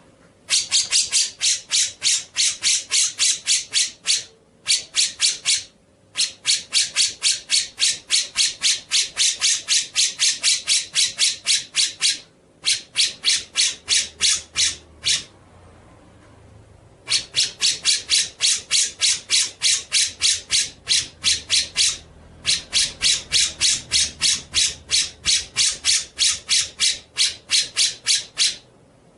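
Bird calling in a rapid rattling series of scratchy notes, about seven a second, in bouts of one to six seconds with short breaks between them.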